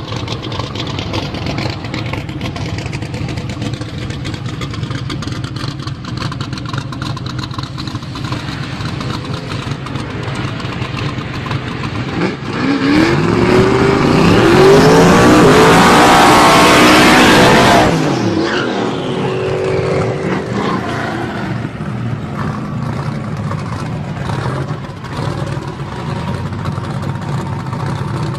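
Muscle car engine rumbling at low revs, then revved hard for about five seconds from just before the middle, with a loud rising engine note and a wide hiss typical of a burnout, cutting off sharply before settling back to a lower rumble.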